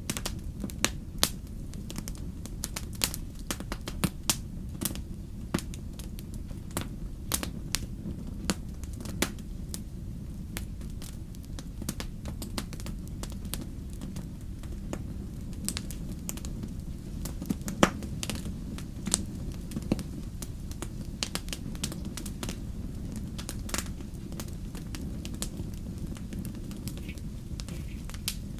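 Wood fire burning: irregular sharp crackles and pops over a steady low rush, with one louder pop about halfway through.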